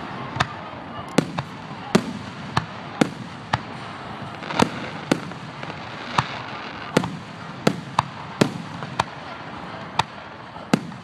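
Fireworks display finale: aerial shells bursting one after another, about eighteen sharp bangs at uneven intervals, some trailing off in a rolling echo.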